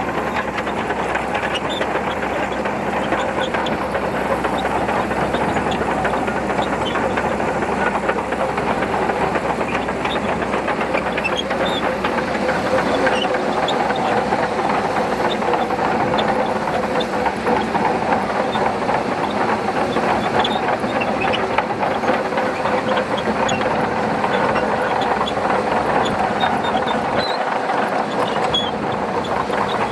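Shantui DH17C2 crawler bulldozer working, its diesel engine running steadily under load with metallic clanking and clicking from the tracks.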